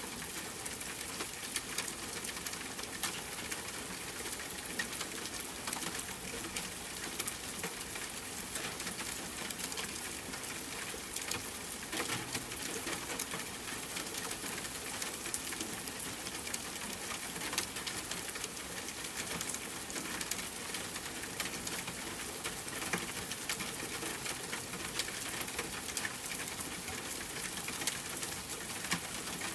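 Steady rain, with many single drops ticking sharply on a hard surface over an even hiss.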